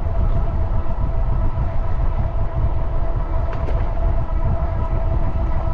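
Wind rumbling on the microphone while riding, with a faint steady whine above it.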